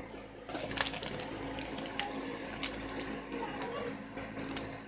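Birds chirping in short, quick calls, over a steady low hum, with several sharp clicks.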